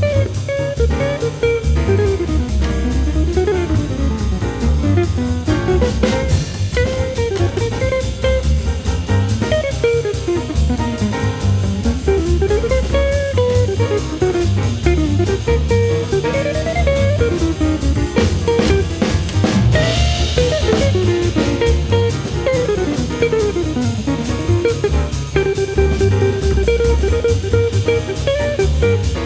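Background music: an upbeat instrumental with a plucked guitar melody over a steady drum-kit beat.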